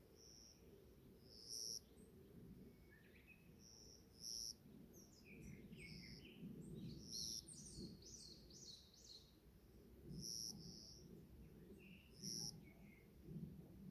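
Songbirds singing in a forest: a short, high chirp repeats about every two seconds, and a quick run of varied twittering notes comes in the middle. A faint low rumble lies underneath.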